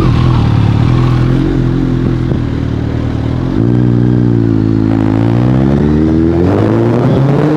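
Suzuki Hayabusa's inline-four engine running loud through a full-system aftermarket exhaust. The note holds steady, drops suddenly about three and a half seconds in, then climbs steadily as the bike pulls, turning rougher near the end.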